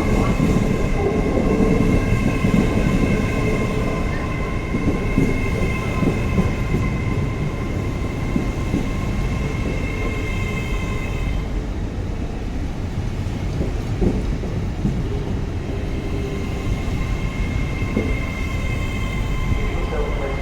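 A train moving through the station, with a steady low rumble and a few knocks from the wheels on the track. Over it runs a steady high whine that drops out about halfway through and comes back near the end.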